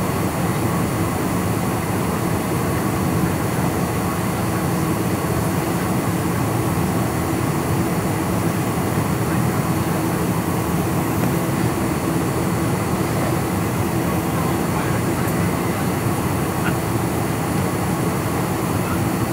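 Steady jet engine and airflow noise of a Boeing 747-400, with faint steady whining tones running through it.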